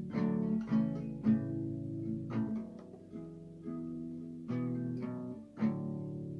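Acoustic guitar strumming and picking chords between sung lines, each chord ringing out and decaying before the next.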